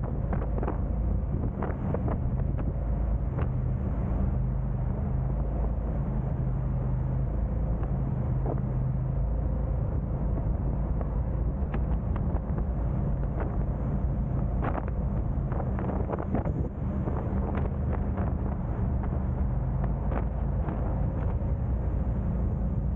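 A car driving on city streets: a steady low rumble of engine and road noise with wind buffeting the microphone, and scattered short knocks throughout.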